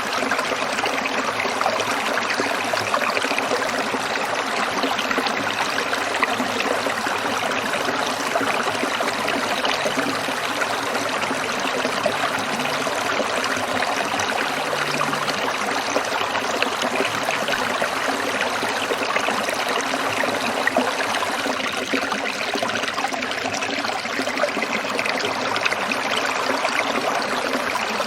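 A small stream trickling and burbling over stones, steady and unbroken.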